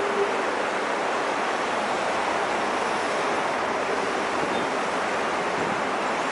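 Steady roar of heavy highway traffic, mostly tyre and road noise from passing trucks, holding an even level without distinct engine notes.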